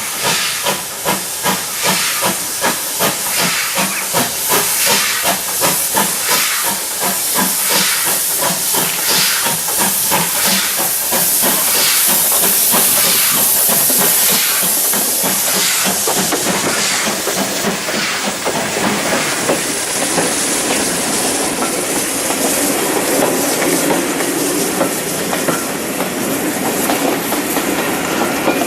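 Steam locomotive working a train, its exhaust beating regularly at about two to three chuffs a second with a loud steam hiss. After about sixteen seconds the beats give way to a steady hiss and rumble as the train rolls past.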